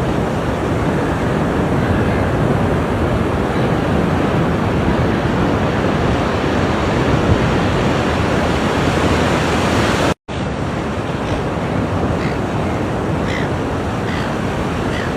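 Ocean surf washing steadily onto the shore, a continuous rushing noise. It cuts out completely for a split second about ten seconds in, then carries on.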